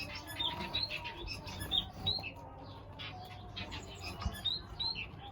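Many small aviary birds chirping, with frequent short, high calls overlapping one another.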